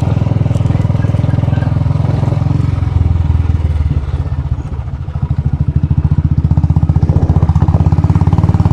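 Royal Enfield Bullet's single-cylinder four-stroke engine running under way. The engine eases off about four seconds in, then picks back up with an even, rapid thumping about a second later.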